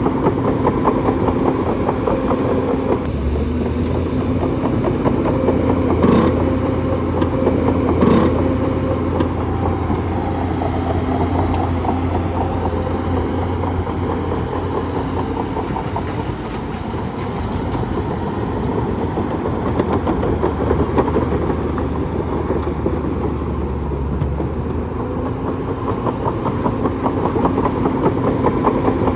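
Bulldozer's diesel engine running steadily, with a deep low hum that comes in about three seconds in and fades near the end. Two sharp metallic clanks come about two seconds apart, early in the run.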